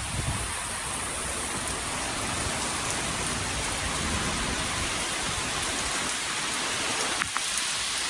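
Heavy rain pouring steadily during a severe thunderstorm, an even, unbroken hiss.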